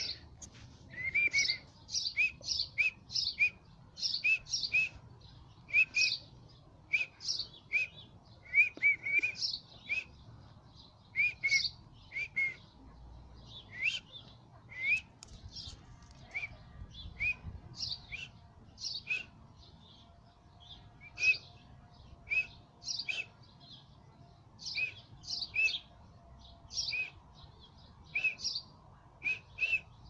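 Birds chirping in a steady series of short, high chirps, about one or two a second, each a quick hooked note.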